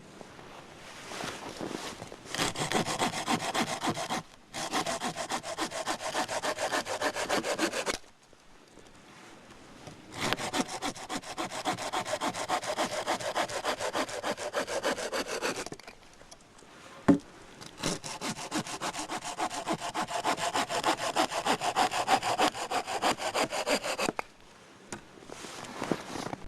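Hand saw cutting dry deadwood for firewood: quick, even back-and-forth strokes in four spells with short pauses between them, and one sharp knock in one of the pauses.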